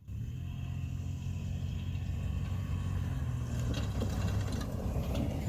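Honda Africa Twin's parallel-twin engine running steadily under way, a constant low drone. A few faint clicks come near the end.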